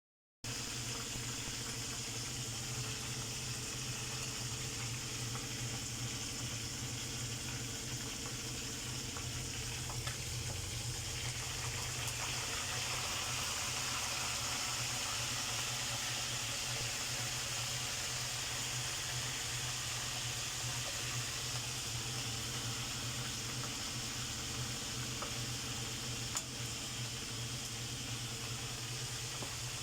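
Quail cooking in a pan: a steady bubbling hiss, with a low hum underneath and a faint click or two.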